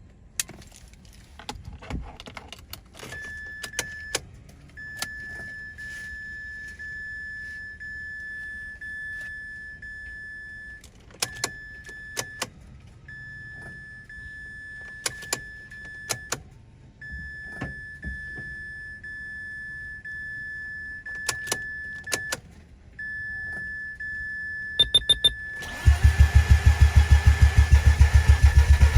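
Mazda RX-8's 13B rotary engine cranking for a moment and catching on its first start with a freshly installed motor, then running loudly with a fast, even pulse, a few seconds before the end. Before that, a high steady electronic tone sounds in long stretches broken by short gaps, with key jingles and clicks.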